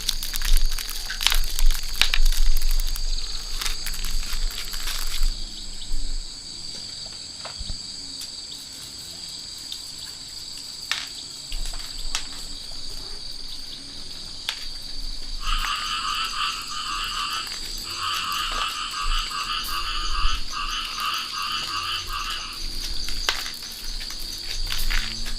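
Insects chirring in a steady, high, continuous tone. Scattered sharp clicks and knocks sound through the first five seconds or so. From a little past the halfway mark, a lower, rapidly pulsed call comes in several short bouts for about seven seconds.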